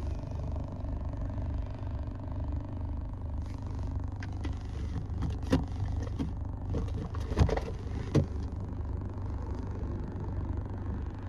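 Steady low rumble of a car idling, heard from inside the cabin. Rustling and three sharp knocks come in the middle as things are handled near the microphone.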